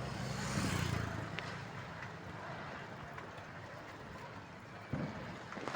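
Outdoor festival crowd ambience over a steady low rumble, with a swell of noise about half a second in and two sharp bangs close together near the end.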